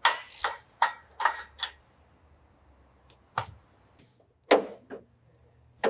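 Sharp metallic clinks and knocks of tools and exhaust hardware while a new muffler is fitted, about eight strikes spaced irregularly, with a gap of more than a second near the middle.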